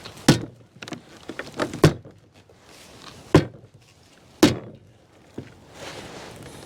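A shovel beating on the top of a compost load, giving four main thunks about a second apart with lighter knocks between.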